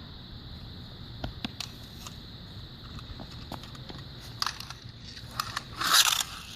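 Scattered clicks and knocks of plastic toy trucks being handled and bumped together, with a louder scraping crunch about six seconds in as a truck crashes.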